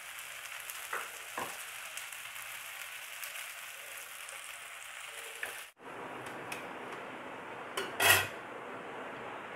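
Wheat dosa sizzling in freshly added oil on a nonstick pan, with a few light clicks. The sizzle cuts off suddenly a little over halfway, giving way to a steady hiss with one short clatter about eight seconds in.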